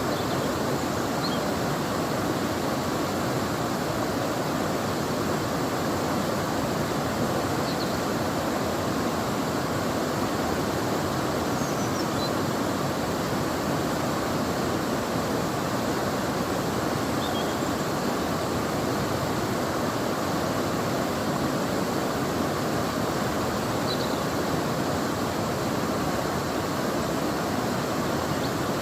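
River water flowing, a steady rushing noise that holds even throughout. A few faint, brief high chirps sound now and then over it.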